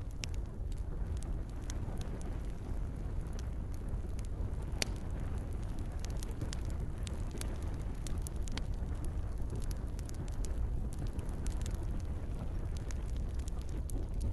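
Campfire crackling with frequent sharp pops over a steady low rumble of flames, with light rain falling.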